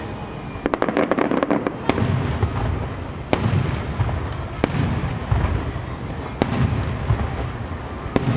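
Aerial fireworks bursting: a rapid run of crackling pops about a second in, then five sharp bangs spaced a second and a half to two seconds apart, over a continuous low rumble of further bursts and echo.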